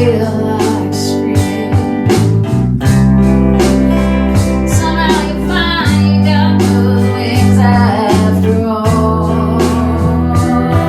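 Blues-flavoured band music: guitar over a steady bass line and regular drum beat, with a singing voice.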